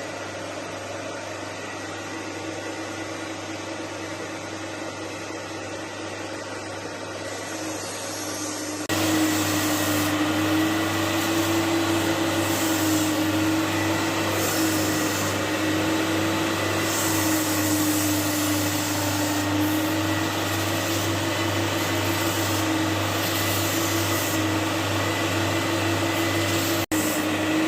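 Carpet-cleaning extraction machine's vacuum motors running steadily, jumping louder about nine seconds in and holding there.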